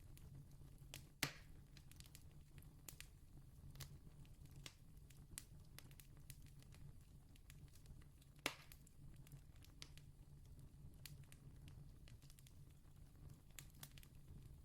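Wood campfire crackling softly: scattered small pops and ticks, with two louder snaps, one about a second in and one just past halfway, over a faint steady low hum.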